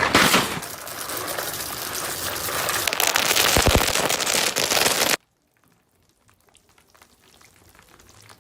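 Loud, steady rain-like hiss of falling or spraying water that cuts off suddenly about five seconds in, followed by faint crackling.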